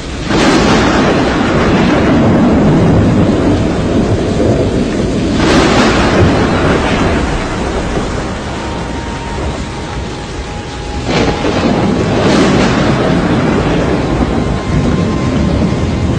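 Storm wind and heavy rain making a dense, continuous rush that swells into loud surges right at the start, about five seconds in, and twice around eleven to twelve seconds.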